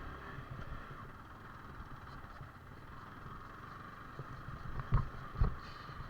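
Yamaha R15 V4 motorcycle running steadily while riding a rough road, with wind noise on the microphone and two low thumps about five seconds in.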